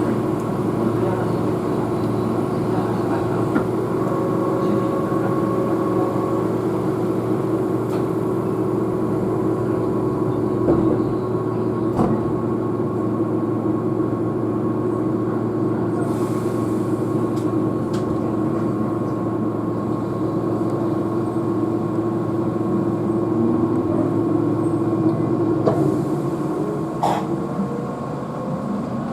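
Keihan electric train heard from inside the carriage as it gets under way: a steady hum of the motors with rolling wheel noise, a few sharp clicks, and a whine rising in pitch in the last few seconds.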